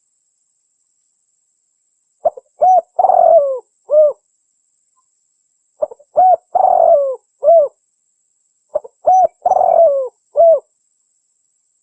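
Spotted dove cooing: three phrases of several low coos each, about three seconds apart, with dead silence between them. This is a recorded call used as a lure for trapping wild spotted doves.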